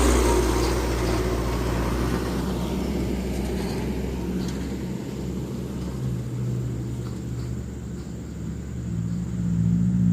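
Diesel truck engines on a climb: one laden palm-fruit truck's engine fades over the first few seconds as it pulls away up the hill, then another truck's engine grows louder near the end as it approaches.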